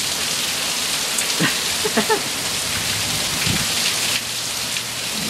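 Steady rain falling, a dense even hiss, with a couple of short faint pitched sounds in the middle and a slight easing just after four seconds in.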